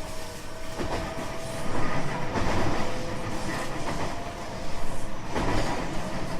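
Running noise inside a JR West 225 series 5000 subseries electric multiple unit: the rumble of wheels on rail with a few clacks over rail joints, and a faint steady whine.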